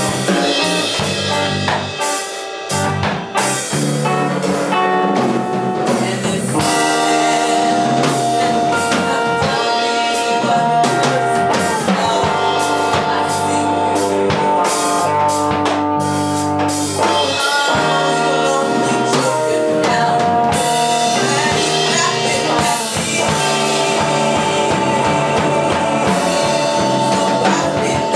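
Live blues band playing: drum kit and bass keep a steady groove under long held melody notes.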